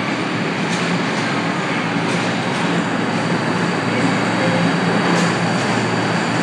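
Passenger train at a station platform giving off a steady rumble with a low hum.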